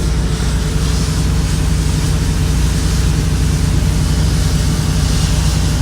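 Semi-truck diesel engine idling steadily, heard from inside the cab, under a steady hiss of heavy rain on the truck that swells in places.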